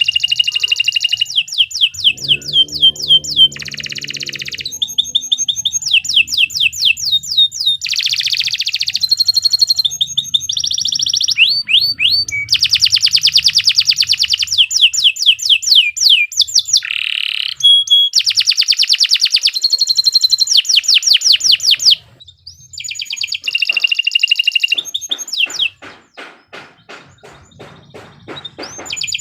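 Domestic canary singing a long, continuous song of rapid high trills, phrase after phrase. There is a short break about 22 seconds in, and a slower series of clicking notes, about four a second, near the end.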